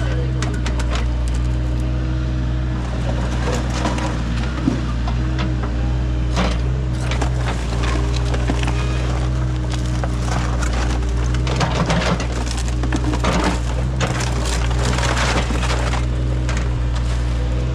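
A digging machine's engine running steadily while its bucket scrapes and crunches through buried debris, with many irregular cracks and clatters of breaking material.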